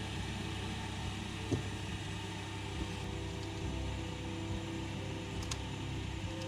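Steady machine hum with a hiss over it, and a couple of faint clicks.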